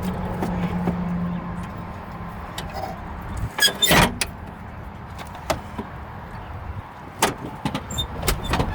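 Metal clunks and knocks from an Isuzu cab-over truck's tilt cab being unlatched and raised. There is a loud cluster of knocks about halfway through and a few sharper ones near the end, over a low rumble.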